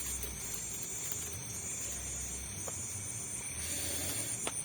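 Night insects, crickets or similar, keeping up a steady high-pitched chorus over a faint low rumble, with a single click near the end.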